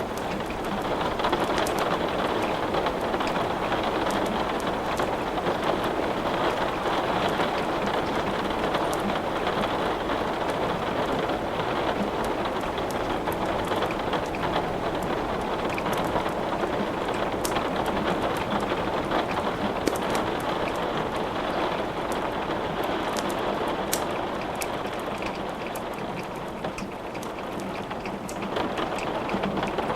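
Steady rain falling, with scattered sharp crackles of wood burning in a fireplace.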